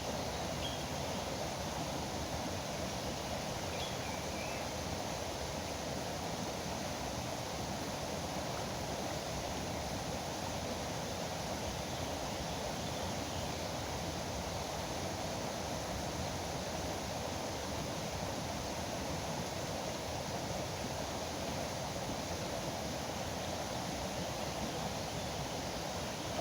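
Steady rush of flowing river water, with a couple of faint bird chirps in the first few seconds.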